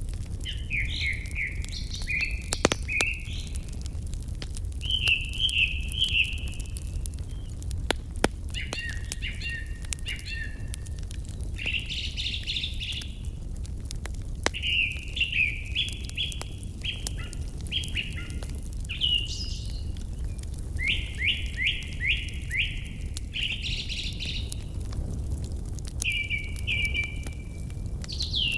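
Songbirds singing in short, repeated chirping phrases over a crackling fire, whose scattered sharp pops and clicks come between the phrases, with a steady low rumble underneath.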